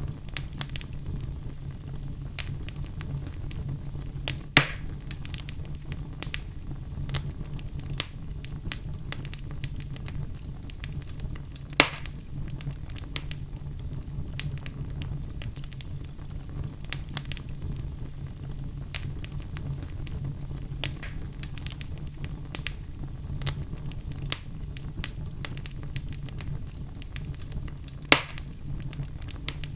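Logs burning in a fireplace: a steady low rumble with frequent small crackles, and three louder pops, about four seconds in, near twelve seconds, and near the end.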